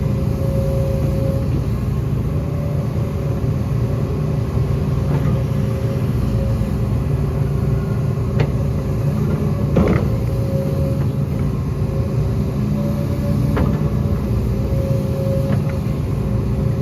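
Heavy diesel earthmoving machinery running steadily, with a few short knocks, the loudest about ten seconds in.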